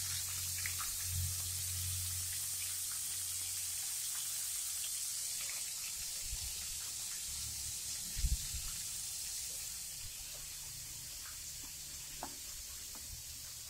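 Flour-coated shrimp frying in hot oil: a steady sizzling hiss, with a few faint clicks and a low thump about eight seconds in.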